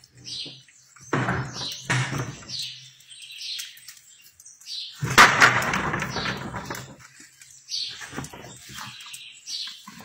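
Small birds chirping over and over in short high notes, broken by bursts of rustling handling noise, the loudest a rush of noise about halfway through that lasts a couple of seconds.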